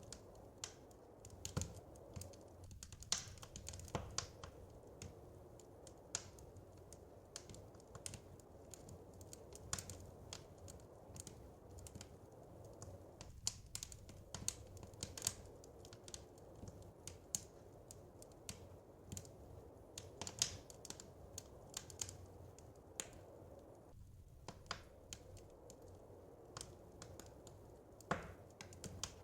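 Fireplace fire crackling: irregular sharp pops and snaps, several a second and some louder than others, over a soft steady rush.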